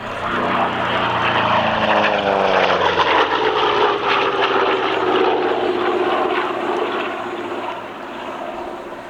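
P-47 Thunderbolt's Pratt & Whitney R-2800 radial engine and propeller in a fast pass, the engine note dropping in pitch as it goes by, loudest in the first half and then fading away.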